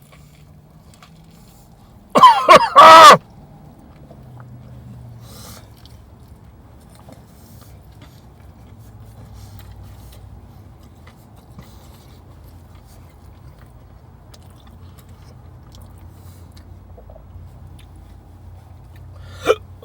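A man's loud, pained vocal outburst lasting about a second, a strained cry from the burn of extremely hot chicken, about two seconds in. Then low room noise, with a short sharp hiccup near the end.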